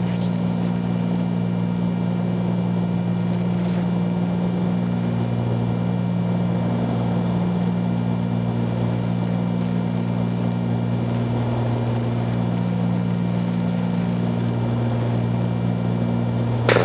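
Cabin drone of a 1974 Cessna 310Q's twin piston engines and propellers in flight: a steady low hum made of several held tones, with a higher tone that wavers a little now and then.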